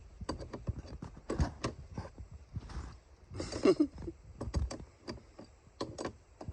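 Irregular clicks and knocks from the outboard's steering cables and swivel being worked back and forth after being freed and oiled, with a short pitched sound about halfway.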